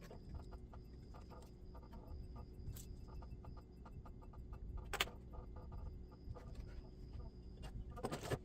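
Faint small taps and clicks of hands and tools working on a model locomotive's motor wiring, with one sharp click about five seconds in and a brief rustle near the end.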